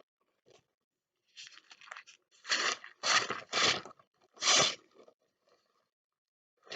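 Dry rice in a tray being swished and shaken: a light scratchy rustle, then four loud, short swishing rattles about half a second apart.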